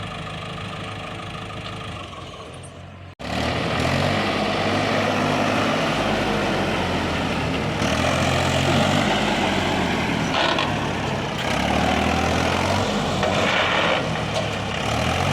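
Heavy diesel machinery engine running and revving up and down as it works. An abrupt cut about three seconds in, after which the engine is louder.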